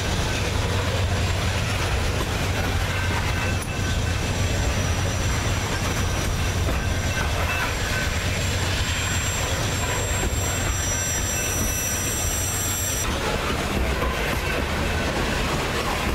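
Loaded coal train's hopper cars rolling past on jointed rail: a steady low rumble with wheel clatter. A high steady squeal from wheel flanges on the curve is heard over it and stops suddenly near the end.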